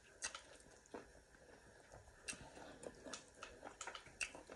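Faint, irregular clicks and smacks of someone eating: mouth sounds of chewing, about a dozen soft ticks scattered over a quiet background.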